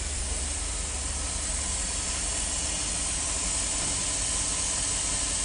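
A vehicle engine idling with a steady low, evenly pulsing rumble under a loud, even hiss that swells slightly toward the end.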